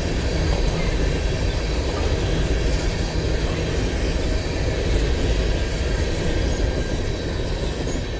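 Railcars of a train rolling past, a steady low rumble with faint thin high tones from the wheels on the rails.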